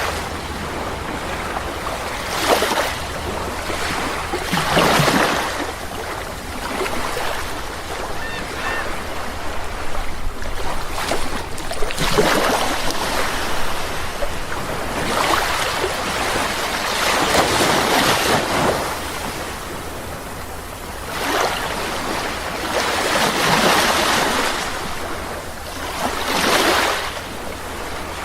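Sea waves breaking and washing up a beach, a rush of surf swelling every few seconds over a steady wash of water.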